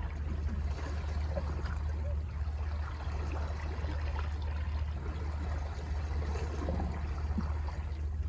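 Sea water washing against rocks, a steady, even wash with a constant low rumble underneath.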